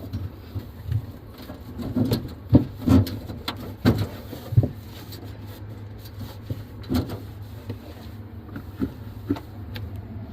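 Irregular knocks, bumps and rubbing from hand-cleaning a refrigerator, busiest in the first half, over a steady low hum.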